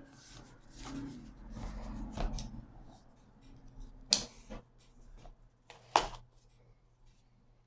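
Cardboard box and packaging handled by hand: rustling and sliding for the first couple of seconds, then two sharp knocks about two seconds apart, the loudest sounds.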